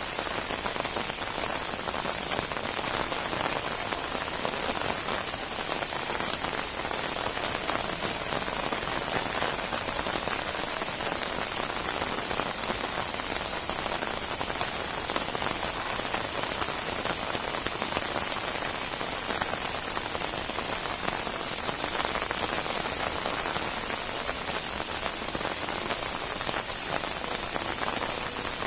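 Steady rain falling and pattering on a surface, a dense even hiss of many drops with no pauses.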